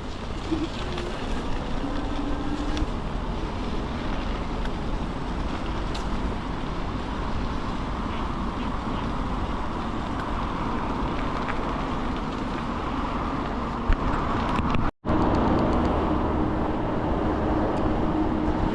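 Ikingi S6 Pro electric bike being ridden, with wind rushing on the microphone over tyre and road rumble. About fifteen seconds in the sound drops out for an instant, then a steady low hum joins the noise.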